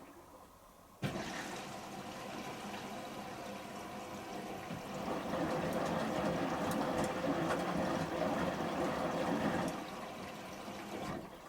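Samsung Series 5+ washing machine filling with water for the final rinse: the inlet valve opens about a second in and water rushes in steadily, louder about halfway, then easing off near the end.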